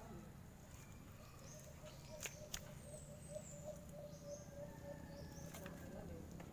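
Faint outdoor ambience with small birds chirping in short, high calls now and then, and two sharp clicks a little over two seconds in.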